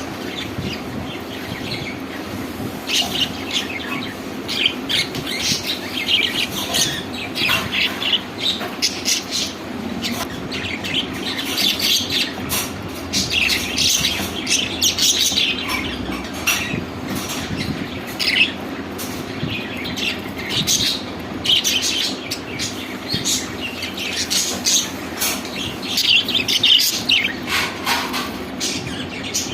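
Budgerigars chirping and chattering in many short, rapid high calls, over a steady low hum.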